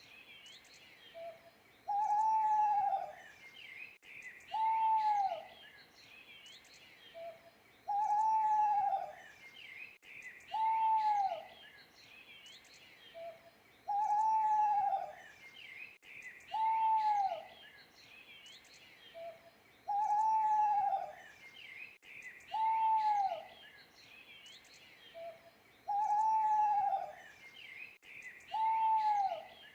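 Owl hooting in a regular pattern, one hoot about every three seconds, each about a second long and dropping in pitch at its end. Under it, other birds chirp steadily.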